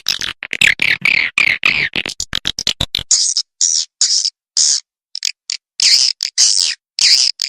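Swiftlet calls from a swiftlet-house lure recording. About three seconds of dense, rapid clicking chirps, then separate short, high twittering chirps with abrupt dead-silent gaps between them.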